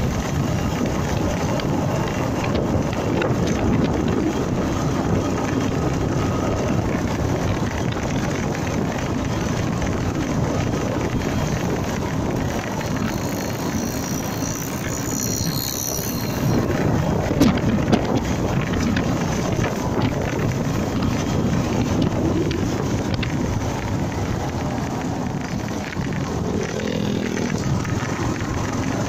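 Wind rushing over the microphone and road noise from a motorcycle riding along, steady throughout, with a brief sharp knock a little past halfway.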